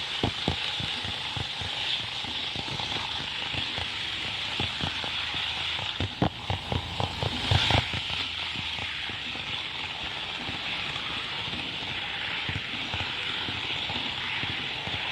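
Kato N-scale model train running on layout track: irregular clicking of the wheels over rail joints over a steady hiss, with a run of louder clicks a little past the middle.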